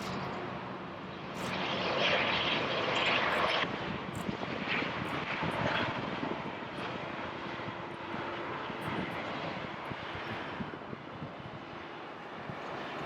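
Airbus A319's twin CFM56 turbofan engines on a landing. The rushing jet noise swells about a second and a half in, is loudest for the next two seconds, then slowly fades, with a faint steady hum underneath.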